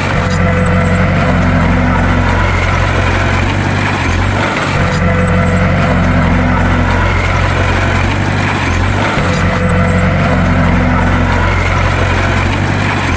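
Bulldozer diesel engine running steadily with a deep hum, the sound dipping briefly and picking up again about every four to five seconds.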